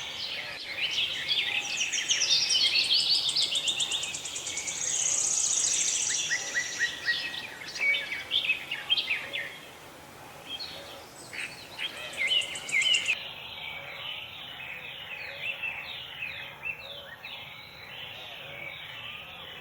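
Several birds chirping and calling over one another, with quick repeated chirps and a fast high trill in the first half, thinning out to sparser calls later.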